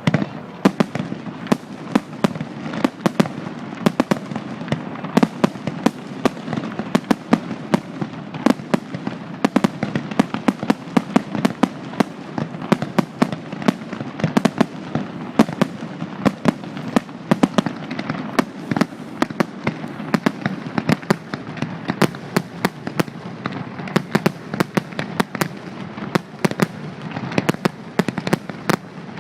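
Aerial fireworks display: a dense, continuous barrage of sharp bangs and cracks, several a second, over a steady rumble of bursting shells.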